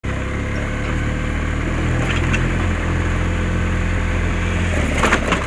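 Motorcycle engine running steadily, with road and wind noise, and a few sharp clicks near the end.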